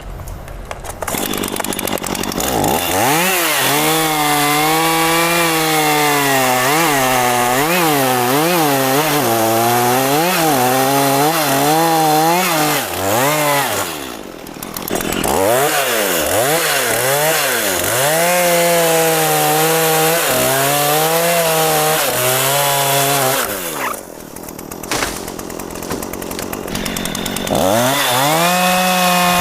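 Petrol chainsaw running at high revs while cutting mahogany, its pitch wavering up and down as the chain loads and frees in the wood. The engine drops back briefly about halfway through, and again for a few seconds near the end, before revving up again.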